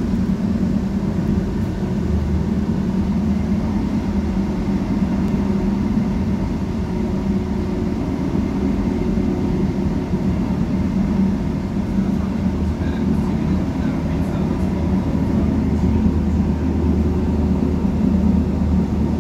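Steady running noise of a regional passenger train heard from inside the carriage: a constant low rumble with a faint steady high whine above it.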